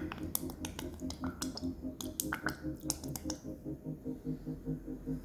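Spoon stirring a liquid marinade in a bowl, clicking and tapping against the bowl several times a second.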